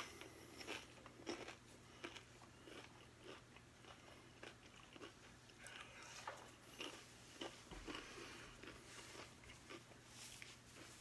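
A person chewing a crunchy chip loaded with cheese dip: faint, short crunches come about every half second.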